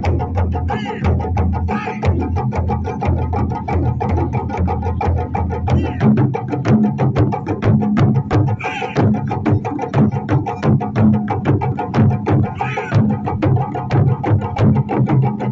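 Japanese taiko drum ensemble playing, with an even run of sharp strikes about five or six a second over a sustained low tone, and a few short calls cutting through.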